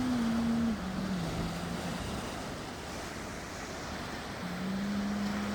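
Sea waves washing on the shore with wind, a steady surf noise. A low held tone sounds over it in the first two seconds, stepping down a little in pitch, and comes back near the end.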